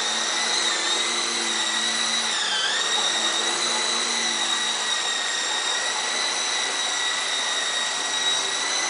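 Venom Beacon coaxial RC helicopter hovering, its electric motors and rotors giving a steady high whine. The pitch dips briefly and recovers about two and a half seconds in.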